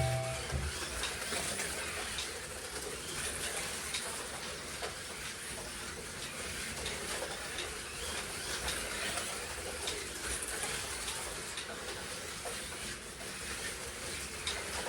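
Slot cars lapping a track: a steady whir of small electric motors and running gear, with scattered light clicks and rattles.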